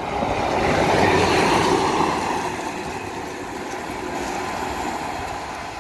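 Northern class 150 diesel multiple unit running through the station: a rushing rumble of wheels on rail and the diesel engine, loudest about a second or two in and slowly fading as the train pulls away.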